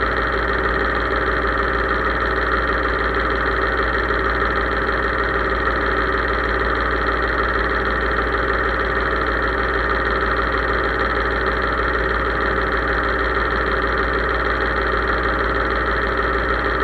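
Case IH 3220 tractor's diesel engine running steadily at an even speed, with no change in pitch or level.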